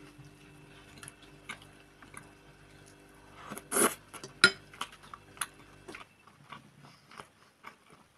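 Close-up eating sounds: wet chewing and smacking of pelmeni in sour-cream sauce, with scattered clicks of a fork on a china plate. The loudest sound comes a little under four seconds in, followed by a sharp click.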